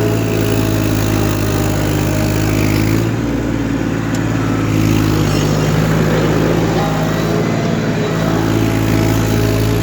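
Massey Ferguson 1035 DI tractor's three-cylinder diesel engine running under load, pulling a cultivator; its steady drone turns rougher and shifts in pitch for several seconds in the middle before settling again.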